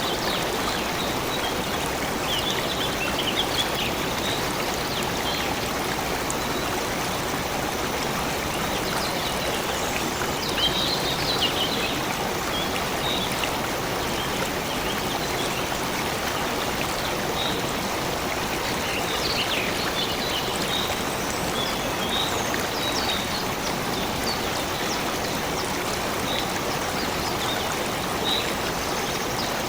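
Stream water running steadily, with short high-pitched trickles and splashes scattered on top.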